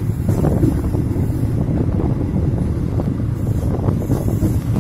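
Sancaka Utara passenger train running along the line, a steady rumble of wheels on rails heard from the rear of the last carriage, with wind buffeting the microphone.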